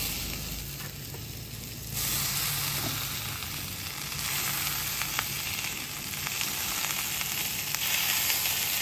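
Onion and spice masala sizzling as it fries in hot oil in a pan, with stirring. The sizzle gets louder about two seconds in.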